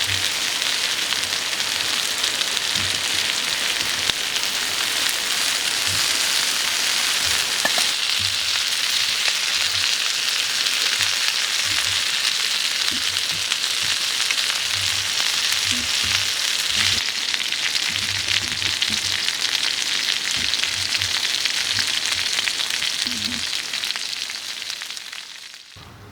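Food sizzling on a grill over a wood fire: a steady, dense sizzle with a few faint pops, fading away just before the end.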